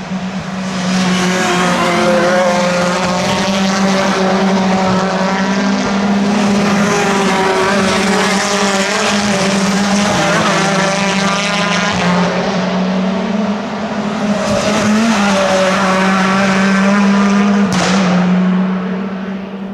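Racing car engines running hard on the circuit: a continuous, loud engine note with pitch rising and falling through gear changes. There is a single sharp crack near the end.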